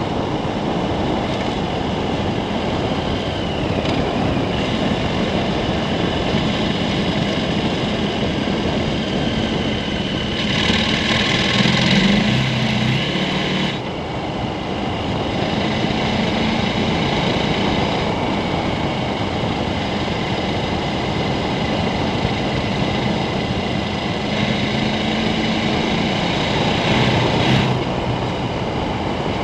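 KTM 1290 Super Adventure's V-twin engine running at road speed on a gravel road, mixed with wind noise and tyre rumble on the helmet camera's microphone. The engine gets louder for a few seconds twice, about ten seconds in and again near the end.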